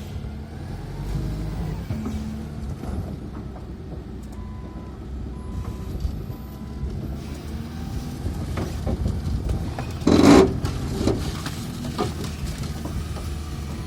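Truck engine running with a steady low rumble, a few short beep tones in the middle, and one sudden loud burst of noise about ten seconds in.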